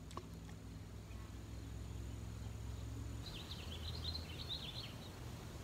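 A songbird sings a quick run of high chirps starting about three seconds in, over a steady low outdoor rumble.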